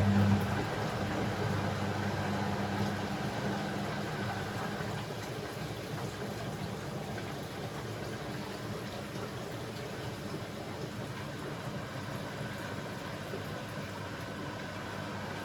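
Beko WML 71433 NP washing machine running mid-cycle: a low hum, strongest at the start, fades away over the first few seconds, leaving a steady even washing noise.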